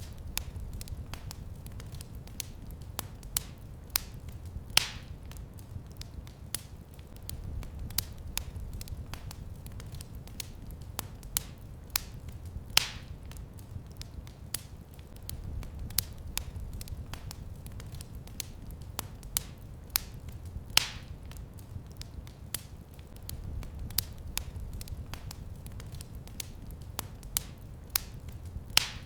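Wood fire crackling in a fireplace: a steady run of small sharp cracks over a low rumble of flame, with a louder pop about every eight seconds.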